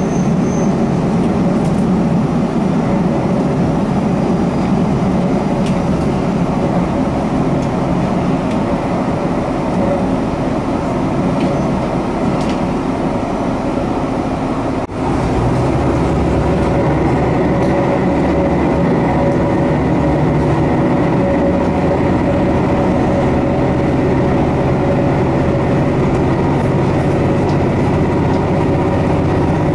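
Inside a Hisatsu Orange Railway diesel railcar running along the line: a steady engine hum with the rumble of the wheels on the rails. About halfway the sound dips for a moment, then a lower, steadier hum takes over.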